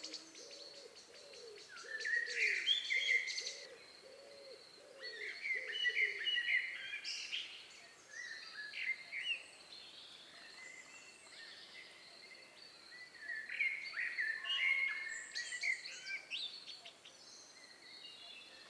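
Birds singing in bouts of quick chirping phrases, with a run of low, evenly repeated hooting notes in the first three seconds.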